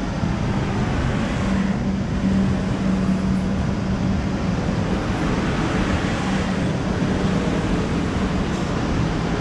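A train running, giving a steady loud rumble with a low engine hum.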